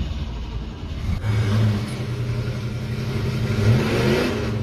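1961 Oldsmobile Cutlass 215 V8 running steadily, with a short rev near the end.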